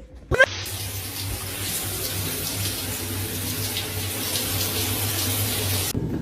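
Steady rush of running water, as from a tap, cutting off suddenly near the end. A short, loud rising squeal comes just before it starts.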